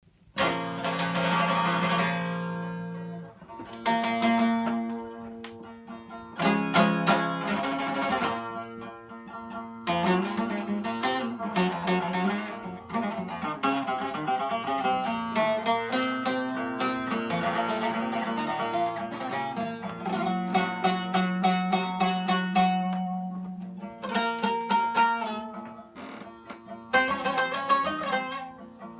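Bağlama played as a free improvisation: phrases of quick plucked and strummed notes, broken by brief pauses.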